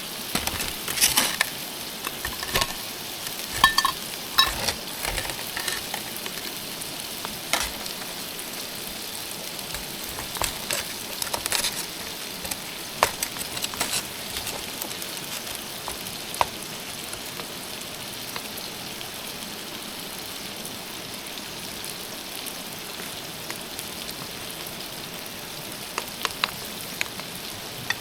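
Food frying with a steady sizzle, with sharp clicks and taps scattered over it, mostly in the first half and again near the end.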